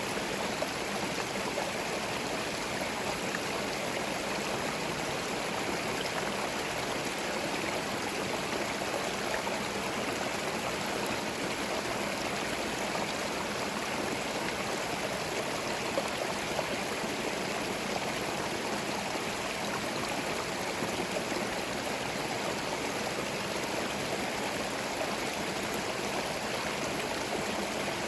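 Forest stream running over stones, a steady splashing and gurgling rush of water with no let-up.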